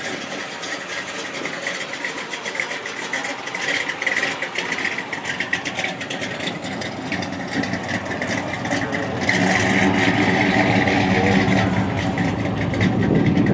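A car engine running, getting louder about nine seconds in, over a steady background hum.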